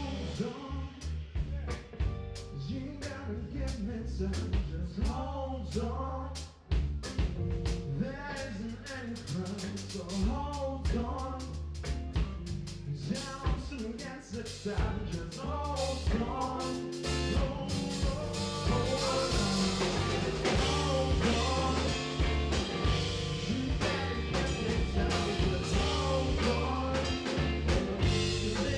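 Live band playing a soul-blues song with drum kit, bass and guitar, and a wavering melodic line over it. The band grows louder and fuller, with more cymbal, about two-thirds of the way through.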